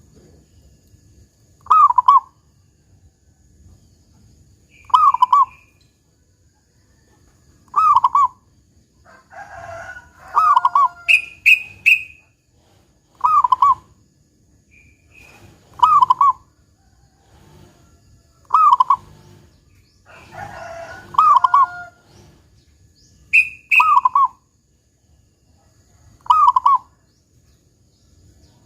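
Zebra dove (perkutut) singing its cooing phrase over and over, about every two and a half to three seconds, roughly ten times, with short high chirps in between.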